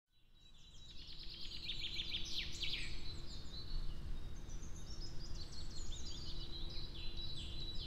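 Several birds chirping and trilling over a low outdoor rumble, fading in from silence over the first second.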